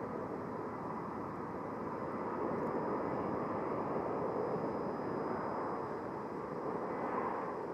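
Jet airliner engines at takeoff power, heard at a distance as a steady rushing rumble that swells a little in the middle and again near the end.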